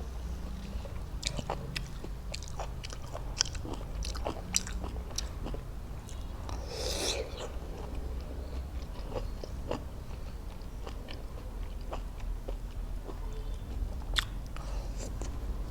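Close-miked biting and chewing of raw fruit: a run of crisp crunches and wet mouth clicks, with a longer noisy burst about halfway through.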